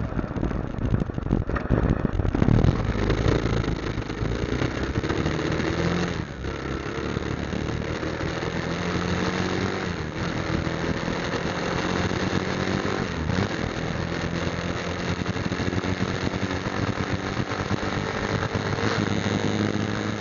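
Motorcycle engine running under way, its note drifting slowly up and down, with brief dips about six, ten and thirteen seconds in. An irregular low rumble covers the first few seconds.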